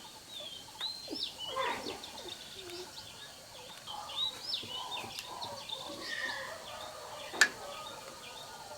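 Birds calling with short, repeated chirps, and a single sharp click a little before the end.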